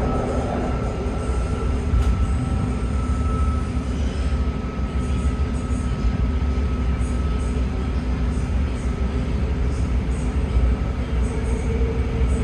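BART train running along the track: a steady low rumble of wheels and car, with a faint thin whine in the first few seconds.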